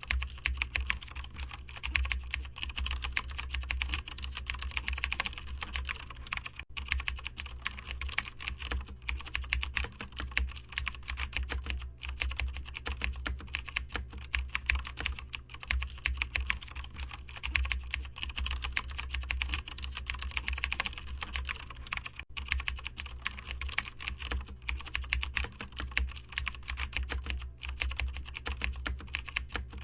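Steady, fast typing on a computer keyboard, a dense stream of key clicks with a few short pauses, over a low steady hum.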